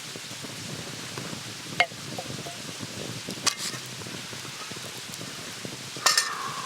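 Steady crackling hiss of food cooking over a campfire, with a few sharp clicks and a short ringing metallic clink near the end.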